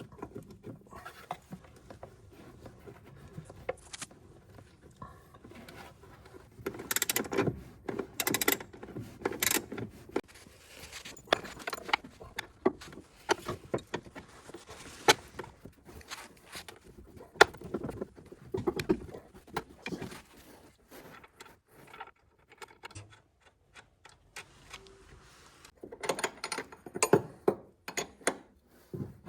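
Hand tools and metal suspension parts clinking, clicking and scraping as the car's upper suspension links are handled and fitted. There are louder clusters of knocks about seven to ten seconds in and again near the end.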